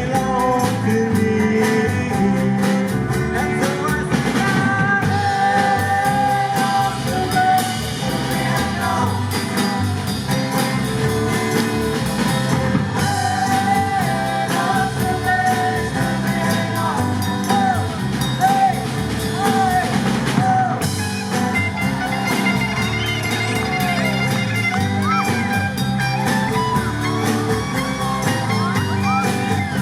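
Live band playing a rock and roll song: electric guitar and drum kit with a singing voice.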